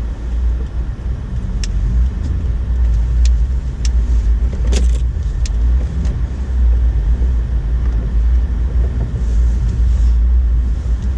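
2008 Honda Ridgeline driving through snow: a steady low road and drivetrain rumble, with a few scattered sharp clicks and a louder knock about five seconds in.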